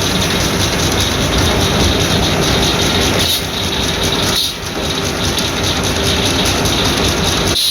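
Circular sawmill blade cutting through a log, with a loud dense rasping rattle. The blade's high idle whine drops away as the cut begins and comes back as it ends.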